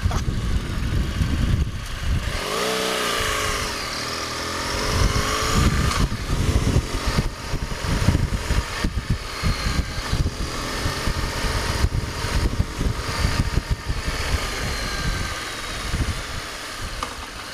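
BMW R1200GS flat-twin motorcycle engine running under way, its pitch rising and falling as it accelerates about two to four seconds in, with heavy wind rumble on the microphone.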